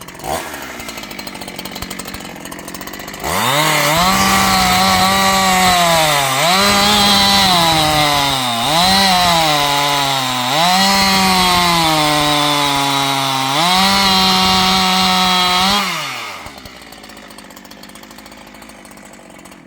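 Two-stroke petrol chainsaw idling, then opened to full throttle about three seconds in and held there for about twelve seconds while cutting wood. Its pitch sags and recovers four times as the chain bogs in the cut, before it drops back to idle near the end.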